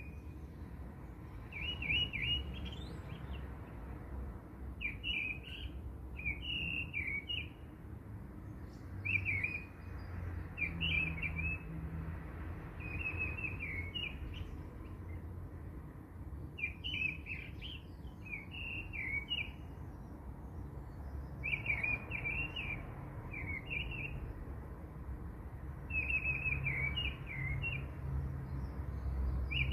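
Small birds chirping: short, high twittering phrases that come every few seconds.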